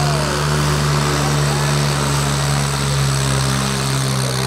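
Swaraj 855 tractor's three-cylinder diesel engine running loudly at a steady, held speed, with no change in pitch.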